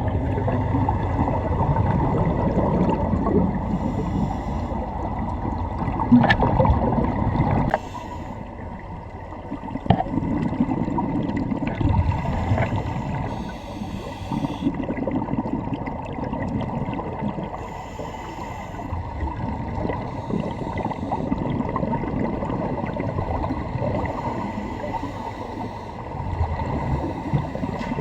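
Underwater water noise with gurgling bubbles and brief hissing flurries every few seconds. It turns quieter about eight seconds in.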